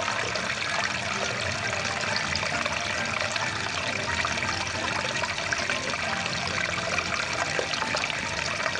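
Rushing water of a small stream, a steady, even flow with no breaks.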